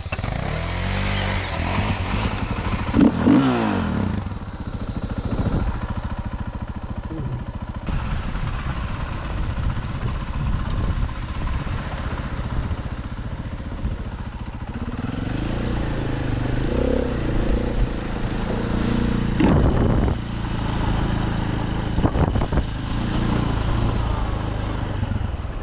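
Dirt bike engine running while it is ridden off-road, its revs rising and falling several times as the throttle is opened and closed.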